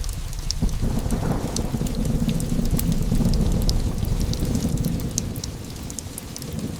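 A long roll of thunder over steady rain: a low rumble with a sharp crack about half a second in, strongest in the middle and dying away near the end. Fireplace crackles go on throughout.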